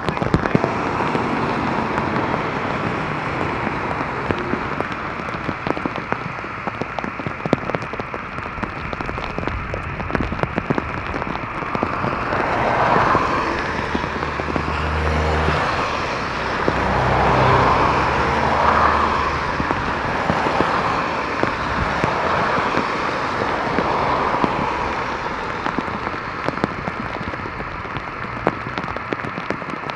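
Torrential rain pouring down, the drops striking close to the microphone in a dense, continuous crackle. About halfway through, a louder swell with a deep rumble rises and falls for several seconds.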